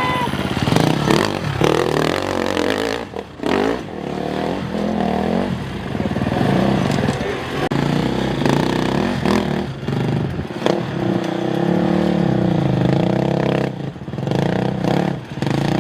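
Dirt bike engine revving up and down, its pitch rising and falling again and again under changing throttle, with brief sudden breaks about three seconds in and near the end.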